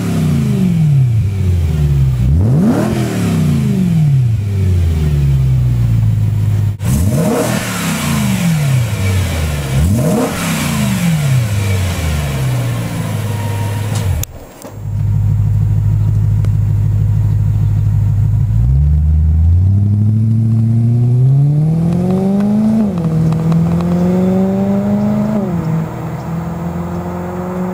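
BMW E92 M3's 4.0-litre V8 through a Borla rear-section exhaust, revved in about six quick blips that each fall back to idle. After a brief break it idles steadily, then its pitch climbs slowly in a few steps and holds near the end.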